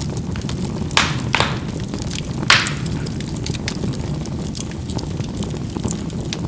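Charcoal burning in a fireplace: a steady low rumble of fire with frequent small crackles and three sharp pops, the loudest about two and a half seconds in.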